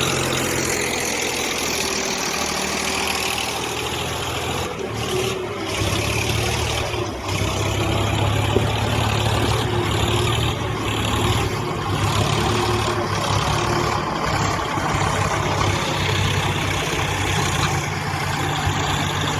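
Tractor diesel engine running steadily; about five seconds in its note shifts and then settles into a stronger, deeper hum.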